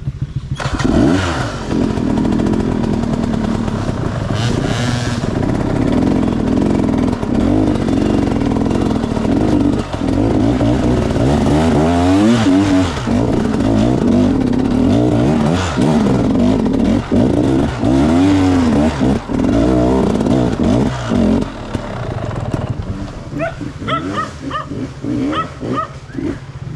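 Enduro dirt bike engine running hard, revving up and down over and over as the throttle is worked.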